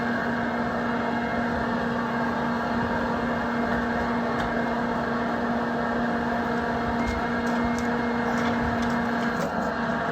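An electric blower motor running steadily, with a strong even hum over a rushing air noise, and a few faint ticks in the second half.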